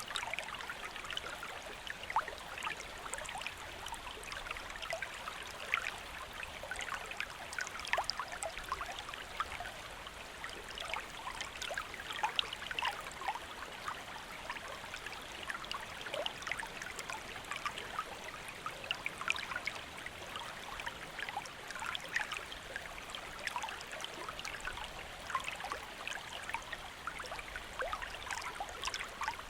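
A shallow stream flowing steadily, with a constant rush and many small splashes and trickles over rocks.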